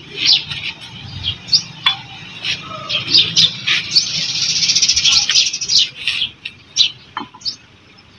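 Small birds chirping: many short, sharp chirps, with a fast buzzy trill from about four to six seconds in.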